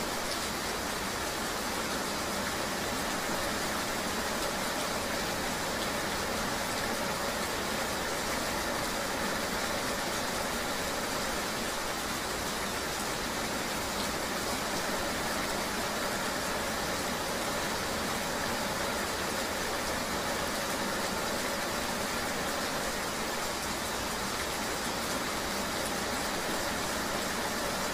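Steady ambience of rain with a vehicle engine running beneath it: an even, unbroken wash of noise.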